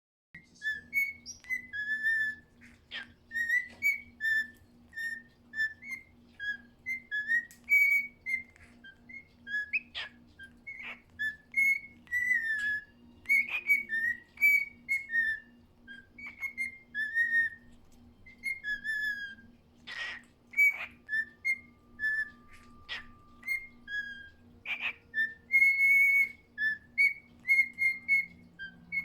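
Male cockatiel whistling a long, unbroken run of short, bouncing whistled notes as a courtship song to his mate. A few sharp, sudden, louder notes are mixed in, the loudest about two-thirds of the way through.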